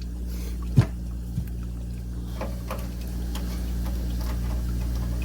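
Small clicks and ticks from hands working the electric water heater's thermostat wiring and clips: one sharp click about a second in, a lighter one soon after, then faint ticks, over a steady low hum.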